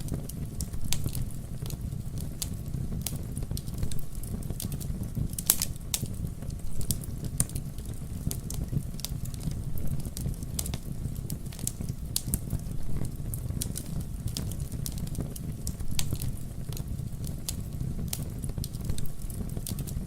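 Wood fire burning with a steady low rumble and irregular sharp crackles and pops throughout.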